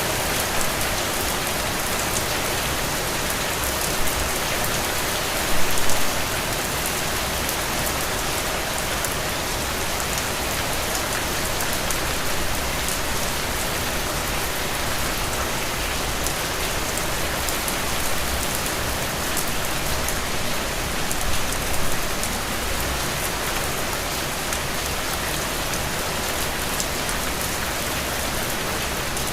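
Steady rain falling on a surface, a dense even hiss with individual drops ticking through it. It swells briefly louder twice, about six seconds in and again just past twenty seconds.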